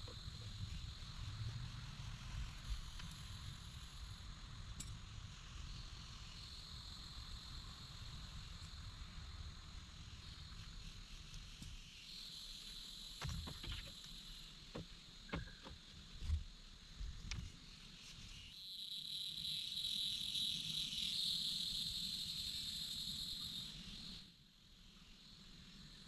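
Steady high buzzing chorus of rainforest insects that swells louder about two-thirds of the way through, then drops away near the end. A few short knocks and low thuds come in the middle.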